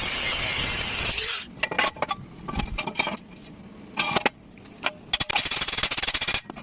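Metalworking tools: a steady rasping, rubbing noise for about a second and a half, then a scattered run of sharp metal clinks and knocks.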